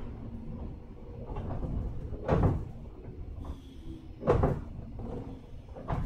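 Low rumble inside a JR 103 series 1500 electric commuter train, with two loud sharp knocks about two seconds apart and a few fainter ones.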